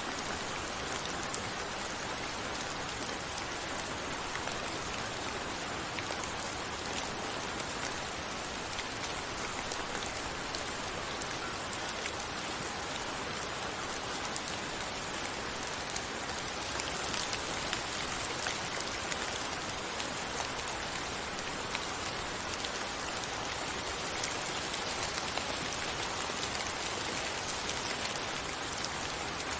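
Steady rain falling: an even hiss with many small drop ticks, getting slightly louder about halfway through.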